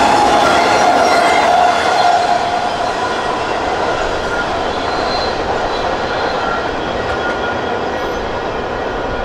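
Freight train of highway trailers on flatcars rolling past, a steady rumble of wheels on rail with a squeal from the wheels. The sound eases slightly after about two seconds as the cars move away.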